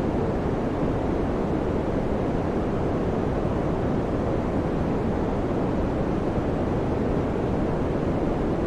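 Electric fan running steadily: a constant, even whoosh of air, weighted toward the low end, with no change.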